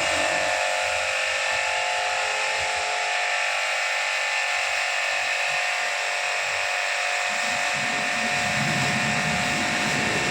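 A small electric motor running steadily with a constant whine of several fixed tones, unchanged throughout.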